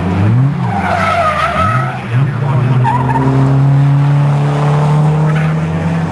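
Racing car engines on track: the revs drop and climb again in the first two seconds, then hold a steady, slowly rising note under power. A short tyre squeal comes about a second in.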